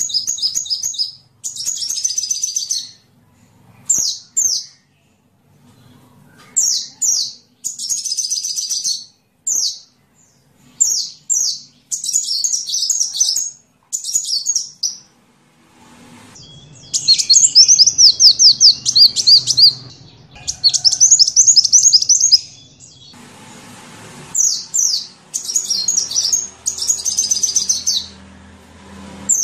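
Sunbird singing: a run of short, high, rapid chirping and trilling phrases with brief pauses between them, the longest and loudest trills about halfway through. It is a masteran recording, the song played to teach captive songbirds.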